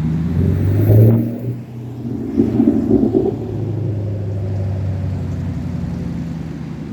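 Straight-piped 2019 Camaro SS 1LE's 6.2-litre V8 exhaust, blipped up twice, about a second in and again near three seconds, then settling back to steady running.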